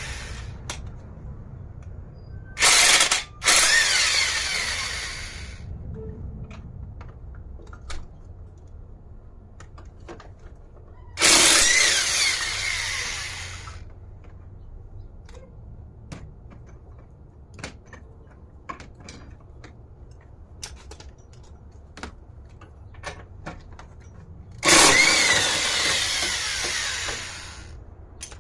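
A power tool running in several bursts of one to three seconds, its motor pitch rising and falling, as it works the bolts of a car's engine mount loose. Scattered light metallic clicks come between the bursts.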